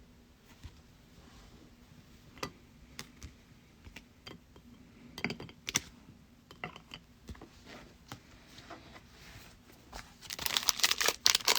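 Light clicks and taps of trading cards being handled and shuffled, then about ten seconds in a loud crinkling of a plastic card-pack wrapper.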